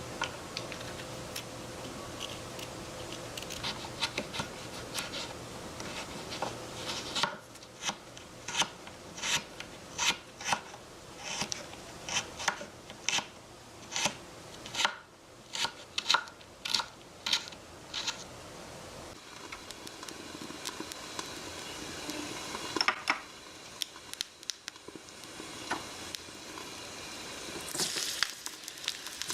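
Food being prepared with small kitchen utensils on a miniature cooking set: after a few seconds of light scraping, a steady run of about seventeen sharp clicks, roughly one every three-quarters of a second, then a few scattered knocks.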